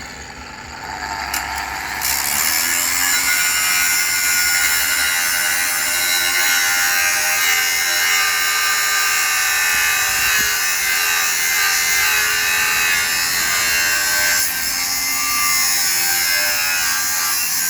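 Power tool fitted with a wheel, most likely an angle grinder, grinding or cutting steel around a door lock. A steady, high whine with a harsh grinding edge sets in about two seconds in and holds steady.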